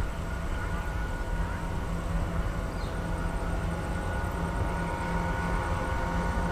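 Freight train locomotive running steadily: a continuous low rumble with a steady hum of several held tones.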